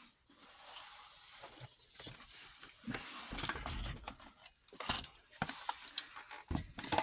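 Handling noise: rustling with irregular small clicks and knocks as objects are moved about by hand.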